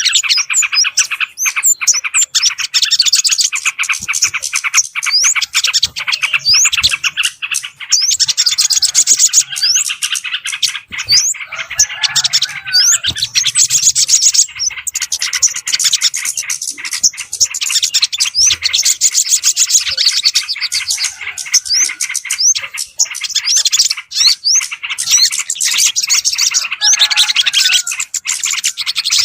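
Bird-lure recording of many small birds chirping and calling at once, a dense, loud, rapid chatter with quick rising notes, played to attract yellow-vented bulbuls and other small birds.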